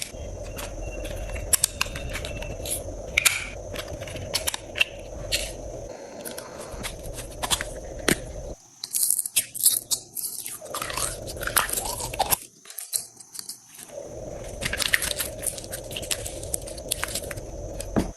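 Slime being squished and pressed, giving a dense run of sharp crackling and popping clicks.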